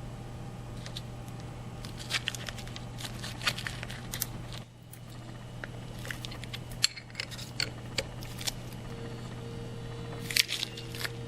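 Scattered light clicks and taps of hand tools being handled, over a steady low hum.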